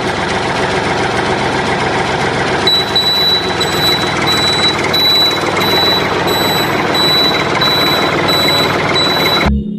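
A tractor-type engine running steadily. From about three seconds in, a high beep like a reversing alarm sounds about twice a second. Both stop abruptly near the end.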